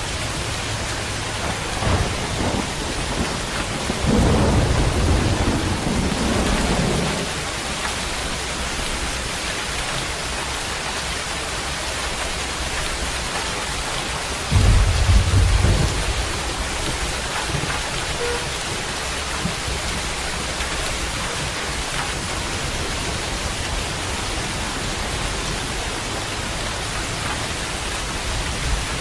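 Steady rain with thunder: a rumble about four seconds in that lasts a few seconds, and a sharper, louder clap about halfway through.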